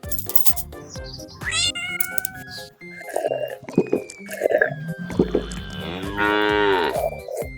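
Light background music with cat meows and other animal calls laid over it as sound effects, including a longer call that rises and falls in pitch near the end.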